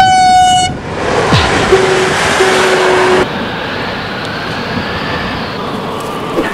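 A train horn sounds one short blast, then a train rushes past loudly for about three seconds, a lower held tone sounding within the noise. The rush cuts off suddenly into a softer, steady rushing noise.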